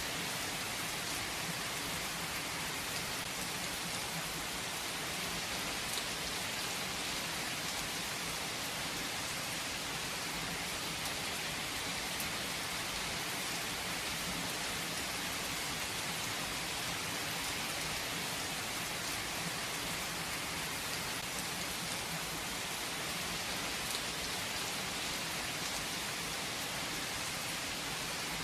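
Steady rain falling on a surface, an even hiss with occasional individual drop ticks.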